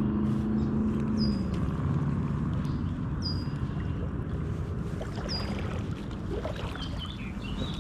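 Sloshing and splashing of someone wading through a shallow creek, a low churning water noise. A bird gives a short, falling chirp three times.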